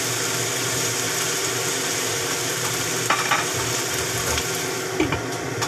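Shredded cabbage frying in a wok with a steady sizzle, stirred with a wooden spatula at first. A few sharp knocks come about three seconds in and again near the end.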